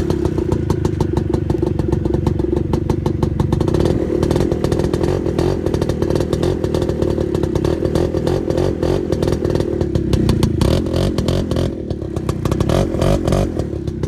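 Suzuki quad's engine running steadily, a fast even beat of exhaust pulses, briefly a little quieter about twelve seconds in.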